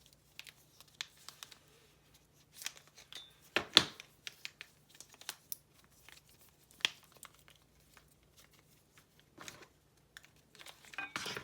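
Hands handling small plastic fidget toys and their packaging: scattered clicks, taps and crinkles, the loudest about four seconds in and a busier run near the end, over a faint steady hum.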